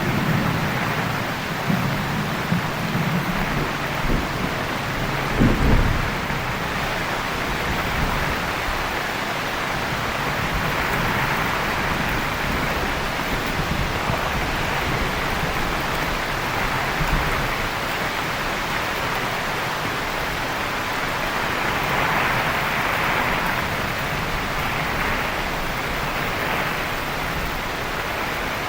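Heavy rain falling steadily, with a low thunder rumble over the first few seconds and a sharp thunder crack about five and a half seconds in, then rain alone.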